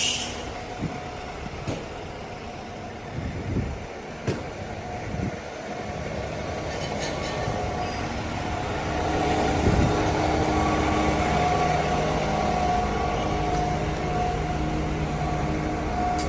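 A large vehicle engine running steadily, growing louder from about six seconds in, after a few knocks in the first seconds.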